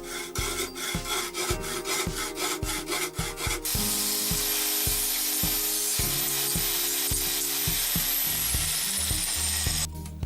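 Hand saw cutting into a pipe held in a vise, with even strokes at about three a second. About four seconds in, a grinder takes over, cutting steadily with a high whine until it stops near the end.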